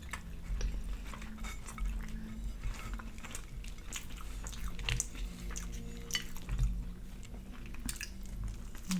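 Chewing and wet mouth sounds of people eating a fried chicken sandwich made with a glazed donut, with many small scattered clicks and a couple of soft thumps about five and six and a half seconds in.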